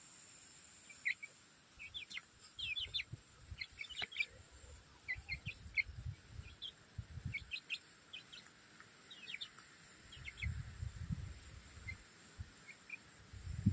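Aseel chicks peeping: short, high chirps in quick clusters, thinning out after about ten seconds, with some low thumps underneath.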